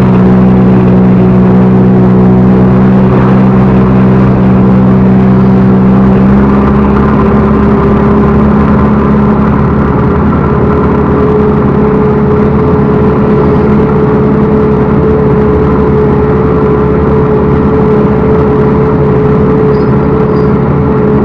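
Backhoe loader's diesel engine running loud and steady, its note shifting slightly about six seconds in.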